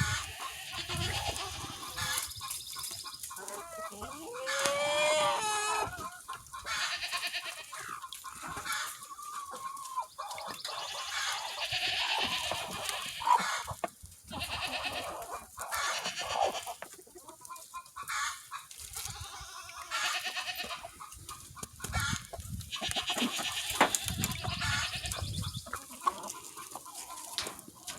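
A flock of chickens clucking and calling on and off, with one longer call rising in pitch about five seconds in.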